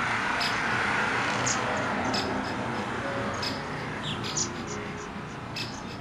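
Short, high bird chirps repeating irregularly over a steady hiss of outdoor noise.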